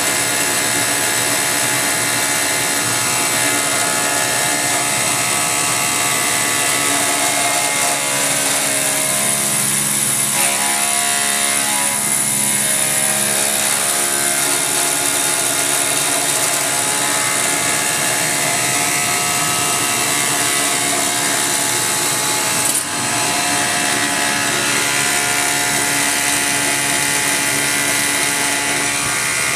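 CNC milling machine cutting metal, its belt-drive spindle running at about 6,000 RPM: a steady, many-toned machining whine over the hiss of the air blower, with a brief drop in level about 23 seconds in.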